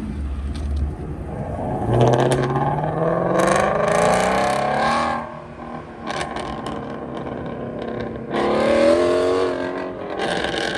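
A car engine revving up hard as it accelerates away, its pitch climbing for about three seconds before it cuts off. A second acceleration follows about eight seconds in.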